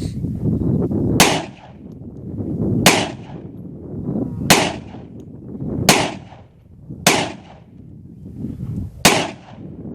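Six rifle shots fired one at a time, about one to two seconds apart, each a sharp crack with a short echo, over low wind rumble. No shot sets off the Tannerite charge: the rifle is not sighted in and keeps missing.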